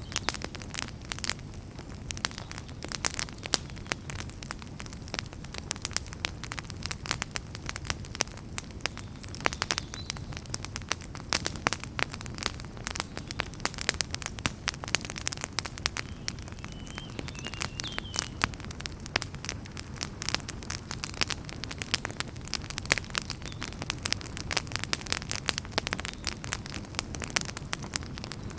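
Wood campfire burning, the firewood crackling with frequent irregular sharp pops over a low steady rumble of the flames.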